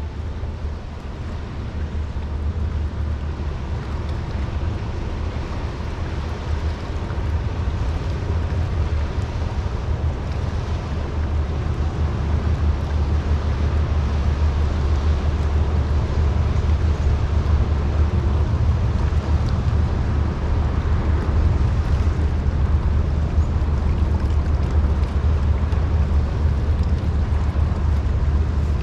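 Deep, steady engine rumble of a passing general cargo ship, growing slowly louder, with wind noise on the microphone.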